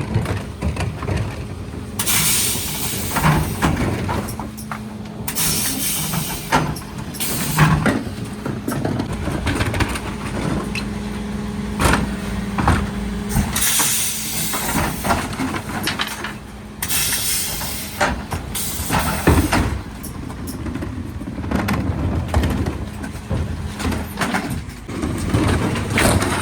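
Mercedes Econic refuse truck working a bin collection: a steady hum from the truck's hydraulics for about ten seconds, several loud air hisses, and knocks and clatter from the Zoeller bin lifters and bins.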